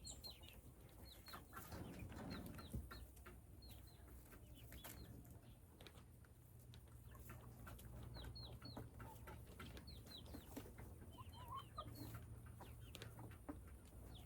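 Faint bird chirps: short, high, falling calls in small clusters, repeating on and off, with a few soft clicks.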